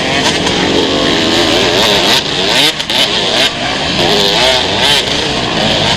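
Motocross bike engines revving up and down, several overlapping engine notes rising and falling together.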